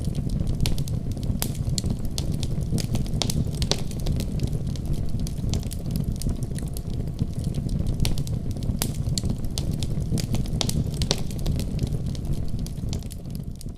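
Wood fire in a fireplace crackling, with irregular sharp pops over a steady low rumble of the flames; the sound begins to fade out near the end.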